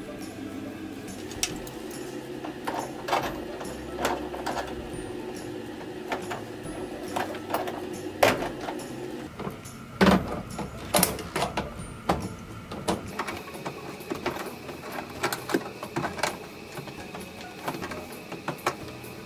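Irregular sharp clicks and knocks of hands and tools working at the washing machine's water inlet connections, over a low steady hum that stops about nine seconds in.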